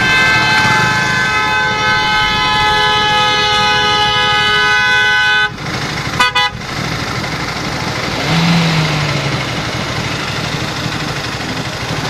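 A vehicle horn held for about five and a half seconds, cutting off suddenly, then a quick burst of short toots a moment later, over steady road-traffic noise.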